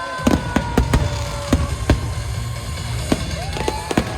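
Fireworks bursting overhead in a rapid, irregular string of sharp bangs, with music playing underneath.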